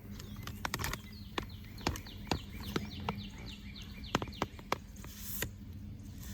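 Scattered sharp clicks and knocks over a steady low hum, with a bird calling a quick run of short, falling chirps from about a second in until past the middle.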